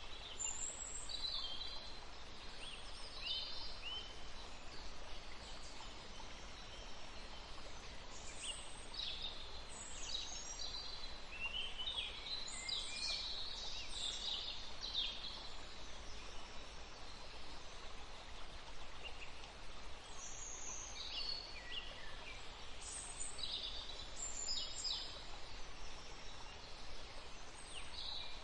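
Several songbirds chirping and singing in short, high-pitched bursts, busiest around the middle with brief lulls, over a steady background hiss.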